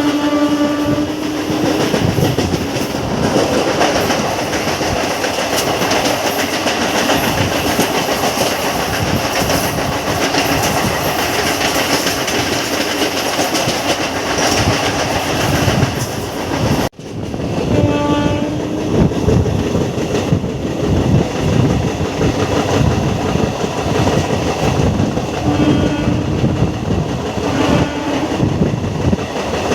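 MEMU electric train running at speed with steady rail and wheel noise. A train horn sounds at the very start and gives several short blasts in the second half; the sound drops out briefly about halfway through.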